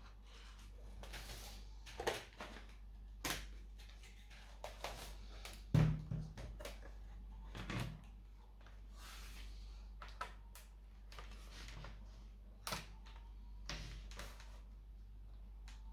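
Hands working on a laptop during disassembly, making irregular small clicks and knocks, with a louder thump about six seconds in, over a low steady hum.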